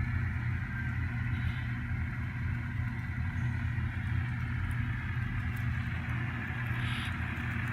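Sound decoder of an N scale ScaleTrains Tier 4 GEVO model locomotive playing a steady diesel engine rumble with the dynamic brake's whine laid over it.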